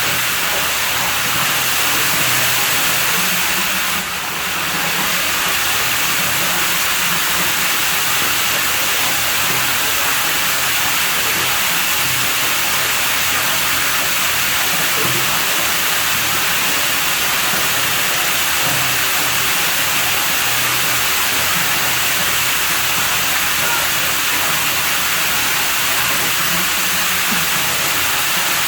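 Steady rushing of running water at a pool villa, an even hiss with a brief dip about four seconds in.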